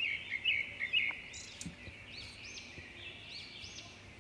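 Birds chirping in the background: a quick run of short chirps in the first second, then repeated arching calls.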